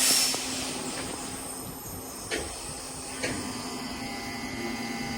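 Class 323 electric multiple unit pulling out of the station: a steady low electric hum from its traction equipment, with a brief hiss at the start and two short knocks a second apart as it moves off.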